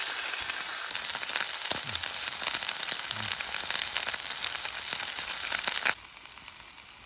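Food sizzling in a frying pan over a camp cooking flame, a steady hiss that drops away sharply about six seconds in.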